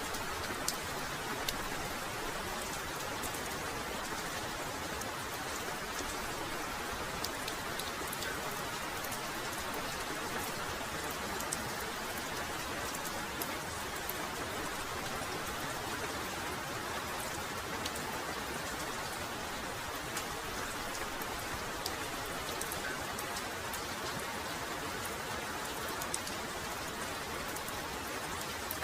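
Heavy rain falling steadily, a dense even hiss with many single drops striking sharply here and there.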